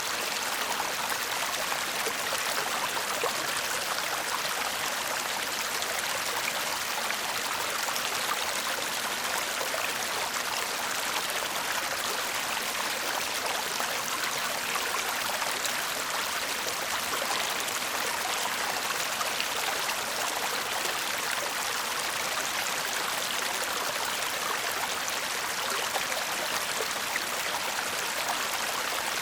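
Shallow stream babbling and murmuring over stones in an even, steady flow.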